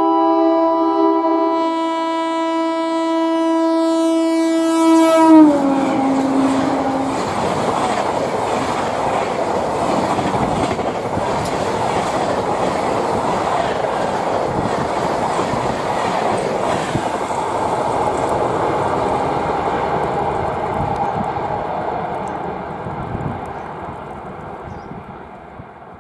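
Express train passing at speed. The locomotive's horn sounds one long chord that drops in pitch as it goes by, about five seconds in. Then the coaches run past over the rails in a steady rush that fades away near the end.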